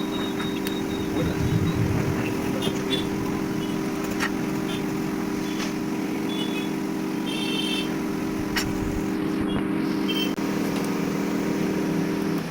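Steady machine hum, like a small motor running, with scattered small clicks and taps; the hum stops at the very end.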